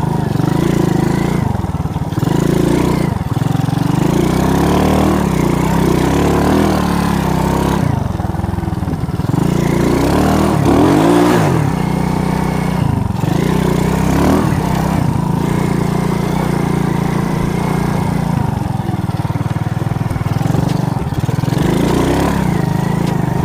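Alpha moped engine running while being ridden, its pitch rising and falling again and again as the throttle is opened and eased off.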